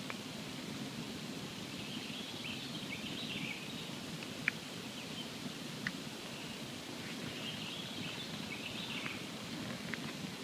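Campfire burning with a steady low rush of flame and a few sharp crackling pops from the wood, the loudest about halfway through.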